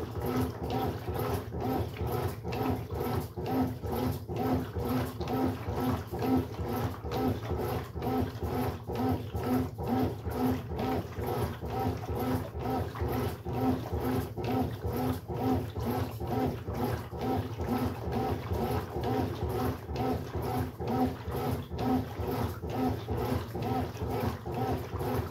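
Brastemp Sexto Sentido 8 kg washing machine in its wash cycle: the motor drives the load back and forth in a steady rhythm of groaning strokes, with water sloshing over a low rumble.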